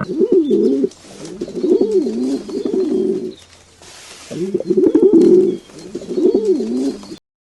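Low, warbling animal calls in four phrases, each swinging up and down in pitch, with a short gap in the middle; the sound cuts off just before the end.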